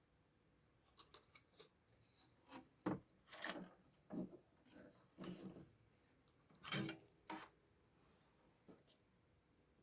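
Scattered small clicks, rubs and scrapes from tools and parts being handled during repair work on a television's power supply board, irregular, with the loudest scrapes about three and seven seconds in.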